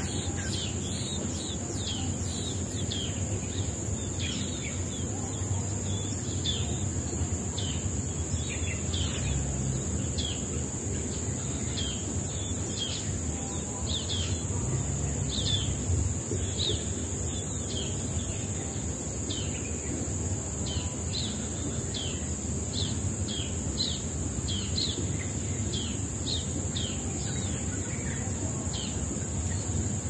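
Small birds chirping: short, high, falling chirps about one or two a second, over a steady high insect drone and a low background rumble.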